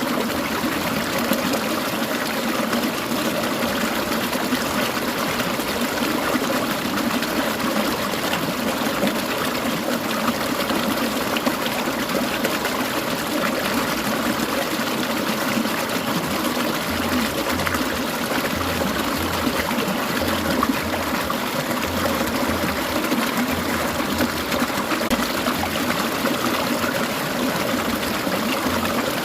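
Clear mountain stream babbling and trickling over rocks, a steady rush of water.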